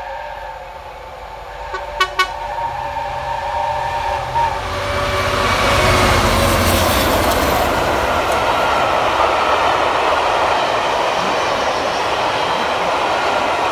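A long steady warning blast from the approaching train, ending about four and a half seconds in. Then the Class 66 diesel locomotive passes close by with a loud rumble, and it is followed by the steady rush and rolling of the coaches' wheels on the rails.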